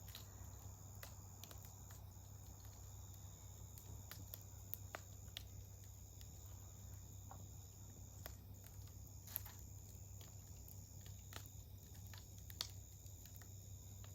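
Wood campfire crackling quietly, with sporadic sharp pops, the sharpest near the end, over a steady high-pitched insect trill.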